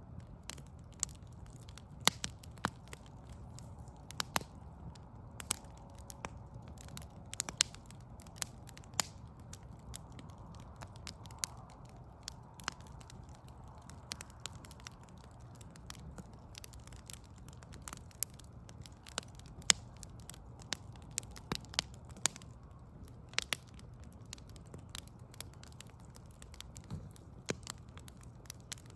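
Burning logs crackling, with irregular sharp pops, a few much louder than the rest, over a low steady rumble.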